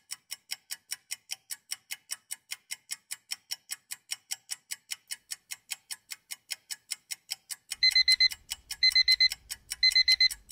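Countdown-timer sound effect: a clock ticking evenly, about four or five ticks a second. About eight seconds in, an alarm clock starts beeping in quick groups of four, roughly once a second, to signal that time is up.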